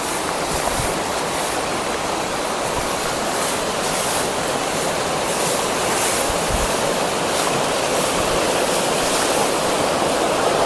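Steady rushing of water from a fast-flowing jungle stream or waterfall, an even roar with no break.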